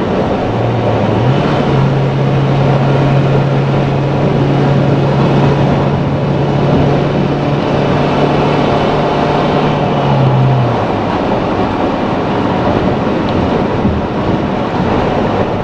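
Road and wind noise inside a car cabin while towing a boat trailer at freeway speed, steady throughout, with a low steady drone that steps up in pitch about a second in and fades out around ten seconds.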